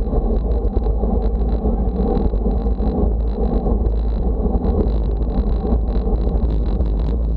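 Wind rushing over a bicycle-mounted camera's microphone, with road noise of a bike riding at speed: a loud, steady low rumble with a thin steady whine on top.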